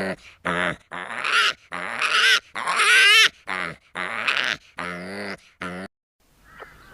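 An animal calling: a run of short pitched cries, with a longer wavering cry that rises near the middle, stopping about six seconds in.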